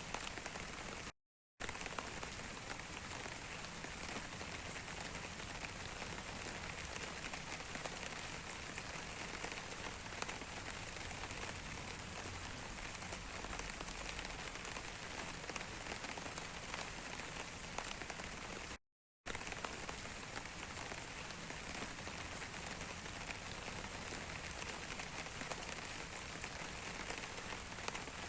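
Steady rain falling, an even hiss full of small drop ticks. The sound cuts out completely for a split second twice, about a second in and again around two-thirds of the way through.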